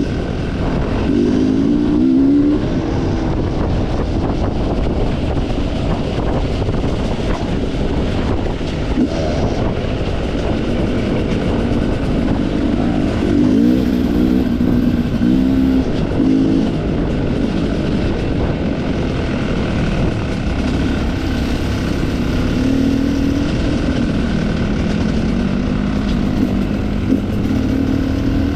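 Off-road enduro motorcycle engine running under changing throttle, revving up and dropping back several times, over a constant low rumble of noise.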